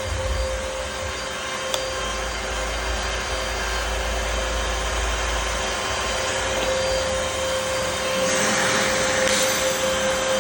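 Dyson DC33 upright vacuum cleaner running, with a steady high whine over a rush of air. A low rumble underneath stops about six seconds in, and the hiss grows louder near the end.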